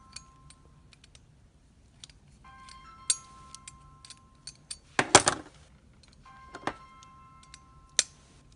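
Small clicks and knocks of hard plastic and metal toy parts being handled while an attachment is fitted onto an RC construction truck, with a louder clatter about five seconds in. Faint steady tones come and go.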